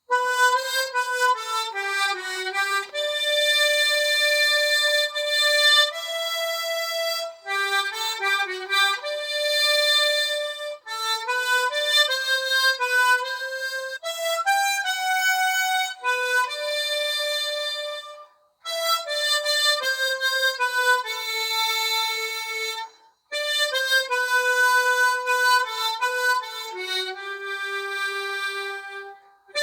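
Solo harmonica playing a slow melody of sustained single notes, with two brief breaks past the middle.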